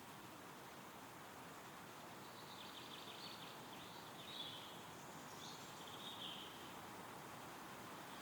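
Wind rustling through woodland trees as a steady faint hiss, with a small songbird giving a few short, high chirping and trilling phrases from about two and a half seconds in.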